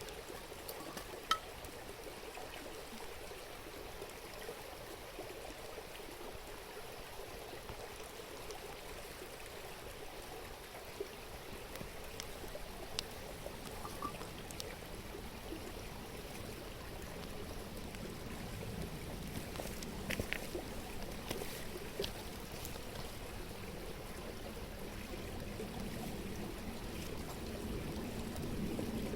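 A river babbling steadily, with a few single sharp pops from the burning wood of a campfire.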